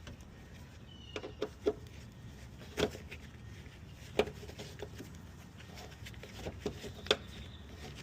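Scattered light clicks and knocks, about six over several seconds, of small fasteners and parts being handled and set down during hand work on a car's front end.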